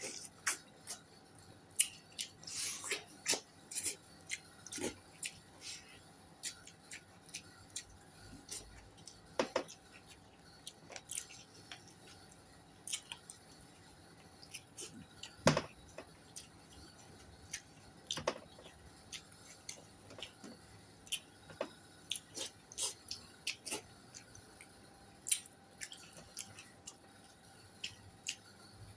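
A person eating close to the microphone: wet chewing and irregular mouth smacks and clicks.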